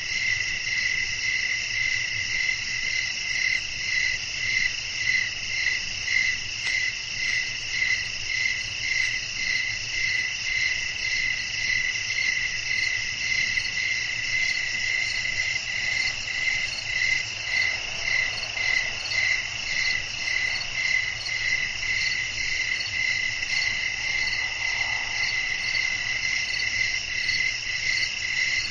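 A night chorus of crickets chirping steadily, pulsing in an even rhythm of about one and a half chirps a second, over a faint low background hiss.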